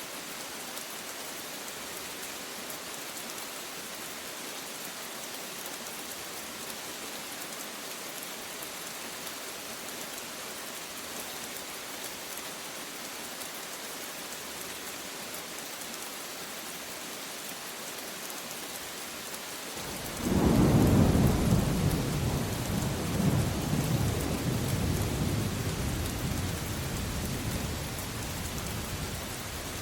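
Steady rain falling, with a loud roll of thunder breaking in suddenly about two-thirds of the way through and rumbling down slowly over the following seconds.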